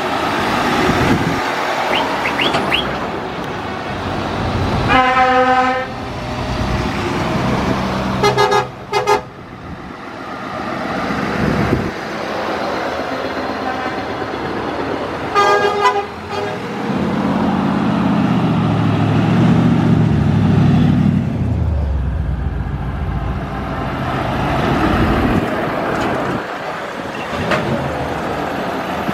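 Lorries in a convoy driving past, their horns sounding three times for about a second each, over steady engine and tyre noise; about halfway through, a heavy diesel engine's low drone swells as a truck goes by.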